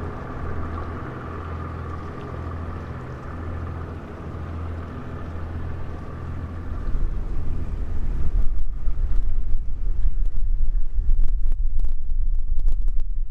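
A sand barge's engine running at a steady hum as it passes on the river, fading after about seven seconds. Gusts of wind then buffet the microphone with a loud, uneven low rumble.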